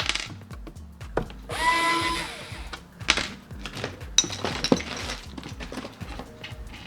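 Sharp clicks, knocks and clatter of hands and tools handling an electronic unit, over music with a steady bass beat playing at low level.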